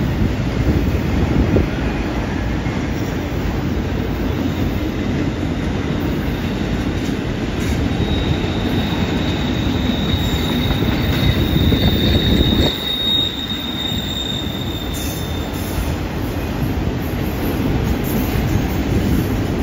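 Freight train's autorack cars rolling past with a steady rumble of wheels on rail. A high, thin steel wheel squeal from the curve sets in about eight seconds in and fades out a few seconds before the end.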